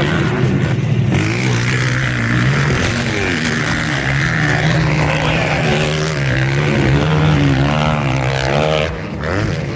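Several motocross dirt bike engines revving hard as the bikes race around the track, their pitch rising and falling over and over as riders open and close the throttle.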